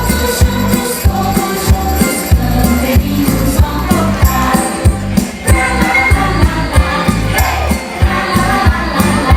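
Band music with a steady, driving beat: a kick drum pulsing and bright shaken percussion over held melody notes, in a passage without words.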